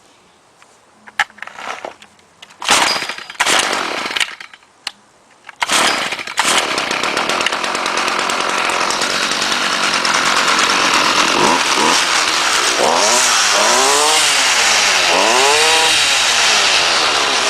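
Stihl FS 38 string trimmer's 27cc two-stroke engine being cold-started on choke: a few short pulls, then it catches about five and a half seconds in and runs steadily. Near the end its pitch rises and falls several times.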